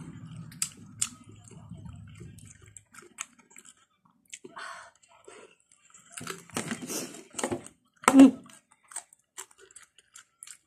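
Close-up eating sounds: chewing and small mouth clicks while eating soft papaya pieces, with a short louder vocal sound about eight seconds in. A low vehicle rumble fades out in the first three seconds.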